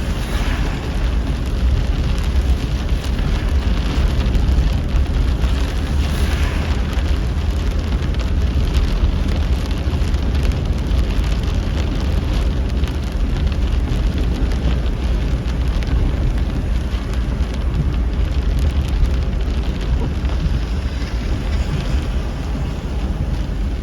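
Car driving through heavy rain with its windows down: a steady low rumble of road and wind noise with the hiss and patter of rain.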